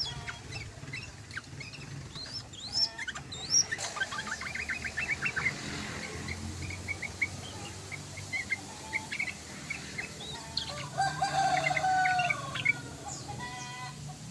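Yellow-vented bulbuls calling: a busy stream of short chirps, quick bubbly rattles and sliding whistles, with a longer, lower call about eleven seconds in.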